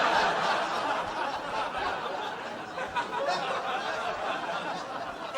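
A theatre audience laughing hard at a punchline, swelling at once and slowly dying away over several seconds.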